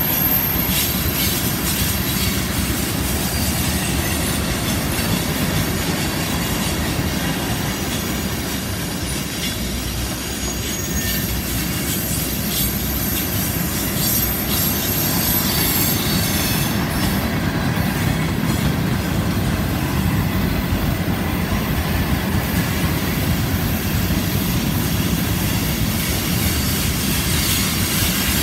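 Loaded tank cars of a freight train rolling past on a curve: a steady rumble of steel wheels on rail with scattered clicks from the rail joints and a thin, high-pitched squeal from wheel flanges against the curved rail.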